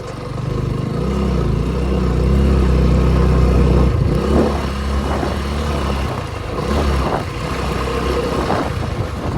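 Motorcycle engine running steadily at low revs, with a deep even drone that breaks up and turns more uneven about six seconds in.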